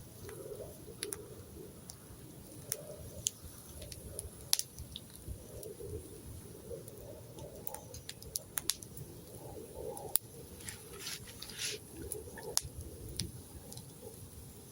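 Wood campfire crackling, with sharp irregular pops and snaps.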